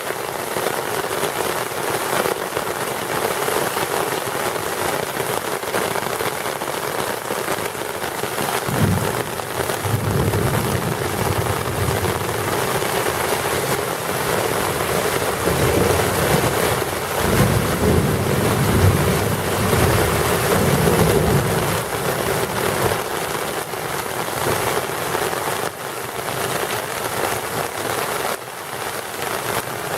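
Heavy rain pouring steadily onto a sidewalk and street. Twice in the middle, a low rumble rises under the rain for a few seconds.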